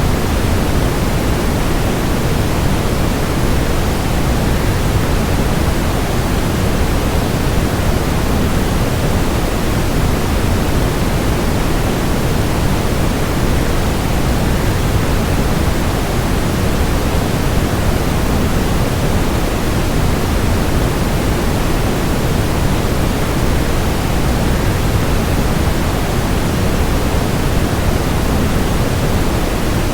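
Steady waterfall noise: an even, unbroken rush, heaviest in the low end, with no change throughout.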